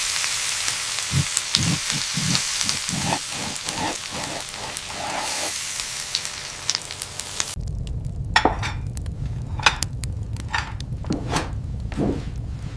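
Food sizzling as it fries in a hot pan, with soft knocks of stirring, for about eight seconds. It then cuts off abruptly to a low rumble with scattered clicks and knocks.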